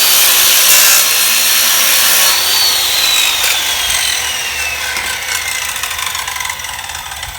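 Old SKIL circular saw with a dull blade running at full speed, cutting through a 2x4 and the nail driven into it. About two and a half seconds in the motor is let off and its whine falls slowly in pitch as the blade winds down.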